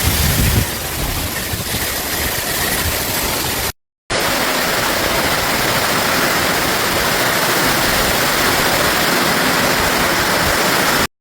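Thunderstorm with heavy rain and wind, a loud, steady rushing noise. It breaks off briefly about four seconds in, then carries on.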